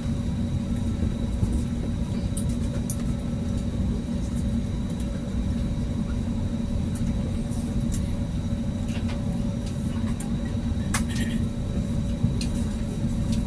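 Steady cabin noise inside an Airbus A320neo during taxi: a constant low rumble from the engines and air systems, with steady hums and a few light clicks or rattles.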